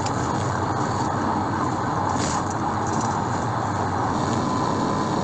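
Police cruiser driving at high speed in pursuit: a steady rush of road, tyre, wind and engine noise.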